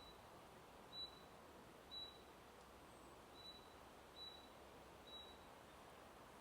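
A faint bird calls a short, high, even note about once a second, six times, over a soft steady hiss of wind in forest leaves.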